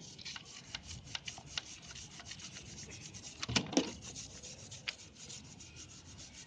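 A brush scrubbing a diesel-soaked motorcycle drive chain, in quick rasping strokes, with two louder knocks about three and a half seconds in.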